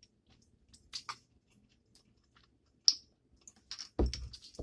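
Eating sounds: soft scattered clicks and wet smacks of chewing, with a sharp click a little before three seconds and a dull knock about four seconds in.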